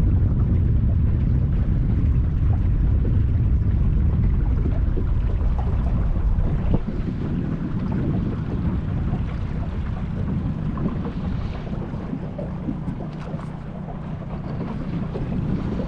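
Wind rumbling on the microphone out on the open water, mixed with water noise; it eases about seven seconds in.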